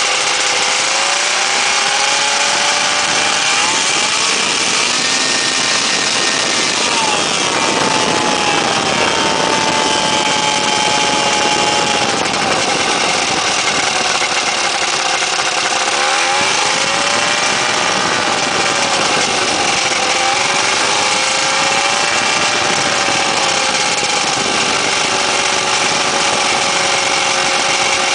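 Weedhopper ultralight's small two-stroke engine and propeller running loud, the engine note rising and falling several times as the throttle is worked.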